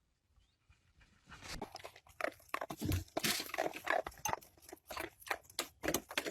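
An animal chewing, with rapid irregular crunches that begin about a second in.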